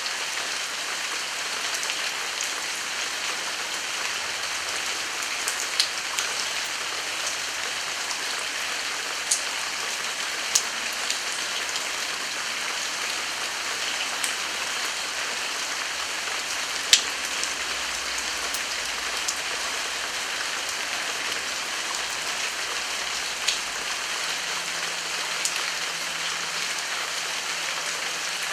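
Steady heavy rain falling, a dense even hiss, with a few louder single drops hitting sharply close by.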